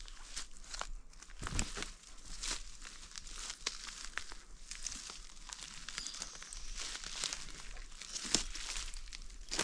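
Dry rustling and crackling throughout, dense and irregular, with a few louder snaps.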